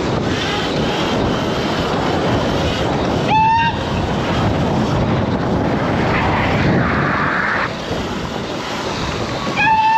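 Wind and road noise on a moving rider's microphone during a group street ride, a dense steady rush. Two short high tones cut through, one about three and a half seconds in and one near the end.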